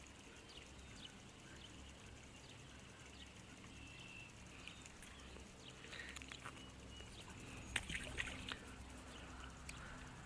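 Faint outdoor quiet with scattered short bird chirps and peeps. A few sharp clicks come about eight seconds in.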